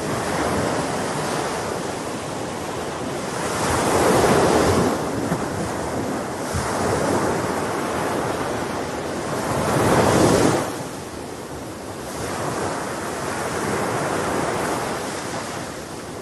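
Sea waves breaking and washing in, a continuous rush that swells twice, about four and ten seconds in.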